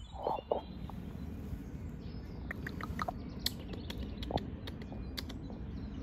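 Scattered small-bird chirps and sharp ticks, most of them around the middle, over a low steady rumble of outdoor background noise.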